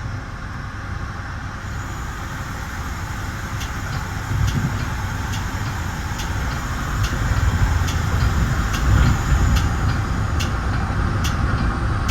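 Metra bi-level commuter cab car running at speed, heard from inside: a steady low rumble of wheels on rail and car-body noise that grows louder a few seconds in. From a few seconds in, a faint sharp ticking repeats about once a second.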